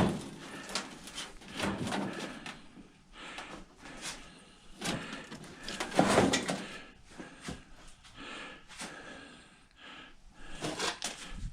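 Parts of an old microwave's sheet-metal housing being handled and pulled apart by hand: a sharp knock at the start, then scattered clicks, knocks and scraping rattles, loudest about six seconds in.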